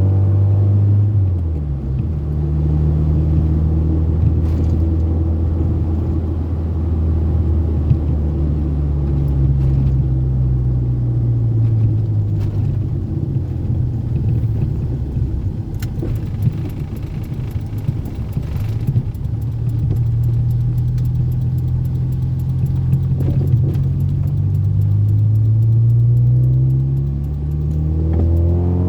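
Toyota Corolla AE80-series sedan driven hard at speed: the engine note drops sharply about a second in as it shifts up, then holds under load. In the middle the engine tone fades under a rushing road and wind noise, then climbs again and drops once more near the end.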